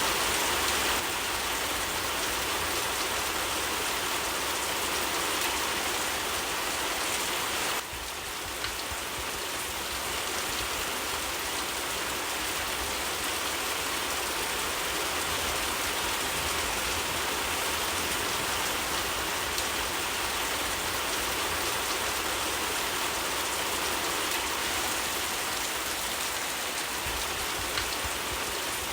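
Steady rain falling, a dense even hiss of drops with no break. The level dips slightly about eight seconds in.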